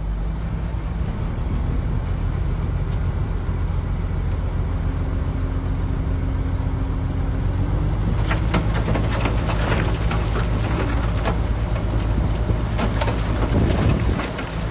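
Shantui DH17C3 bulldozer's diesel engine running steadily under load; about halfway through, a dense clatter and crackling sets in over it.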